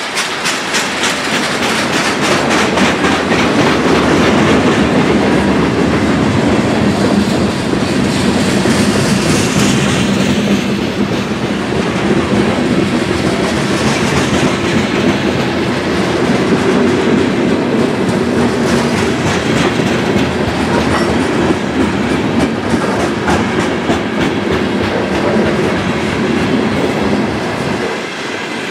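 Freight cars (boxcars, covered hoppers and tank cars) rolling past close by, their steel wheels running steadily on the rails with a rapid clickety-clack over the rail joints.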